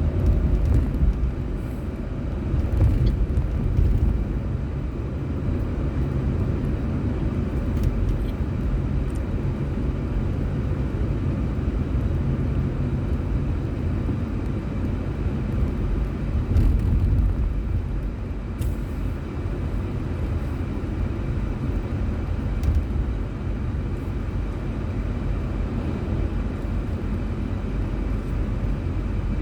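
Car driving on a road: a steady low rumble of engine and tyre noise, with a few faint clicks scattered through it.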